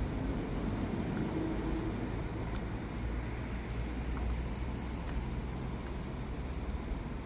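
Steady low rumble of outdoor background noise, like distant traffic, with a faint short tone about a second in.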